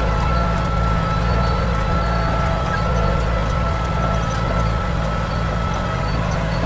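Kubota M9000 tractor's diesel engine running at a steady speed, with a steady whine above the engine note.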